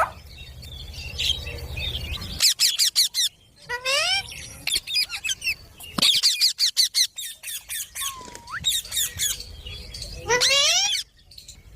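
Pet parrot calling and squawking: clusters of rapid harsh notes and several upward-gliding calls, with a loud rising call near the end.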